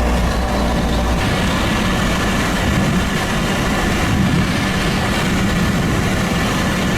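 Steady vehicle engine and road rumble under a loud, noisy hiss, which changes character about a second in.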